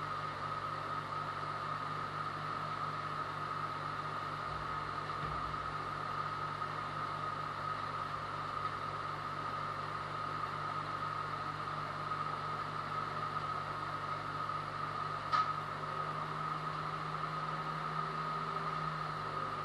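An engine running steadily at a constant speed, with a steady low hum and a high whine, and no load changes. A single sharp click sounds about fifteen seconds in.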